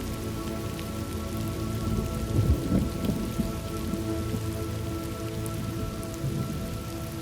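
Steady rain falling, with low rolling thunder that swells about two and a half seconds in, over faint sustained tones of a soft background drone.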